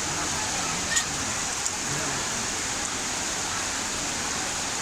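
Heavy rain pouring in a steady hiss, with two sharp ticks of drops striking something about a second in and just after.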